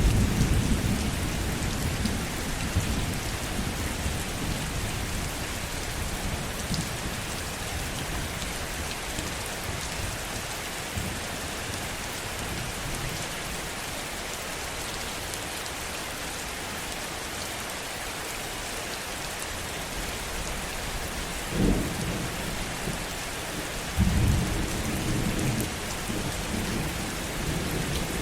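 Heavy rain falling steadily, with thunder. A rumble fades away at the start, a short sharp clap comes about three-quarters of the way through, and another low rumble rolls in near the end.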